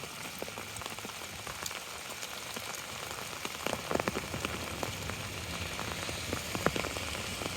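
Rain falling on an umbrella held overhead: a steady hiss with many separate drops ticking, thickest about four seconds in.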